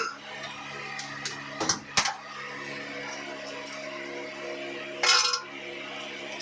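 Metal tools clinking and tapping against engine parts while an engine cylinder head is taken apart: a few separate clinks in the first two seconds and a short, louder rattle about five seconds in. A steady low hum runs underneath.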